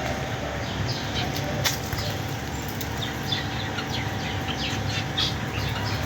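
Many small birds chirping together in short, quick high calls, over a faint steady hum.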